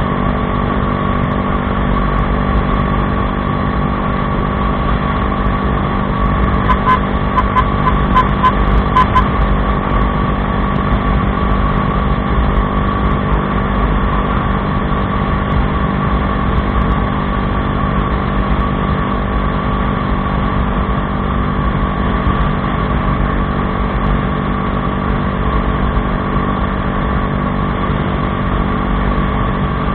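Bajaj Dominar 400's single-cylinder engine running steadily through an aftermarket Akrapovič exhaust. A quick run of short high beeps sounds about seven to nine seconds in.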